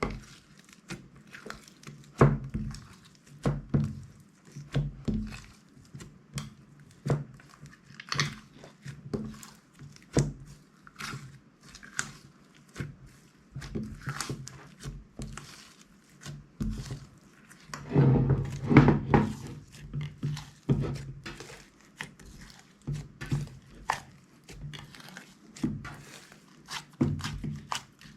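Hands pressing and squishing slime, a run of short wet clicks and pops one or two a second, busiest and loudest about two-thirds of the way through.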